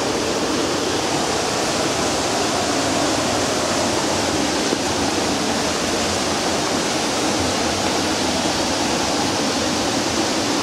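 Fast-flowing water rushing steadily, a loud, even roar of a mountain river.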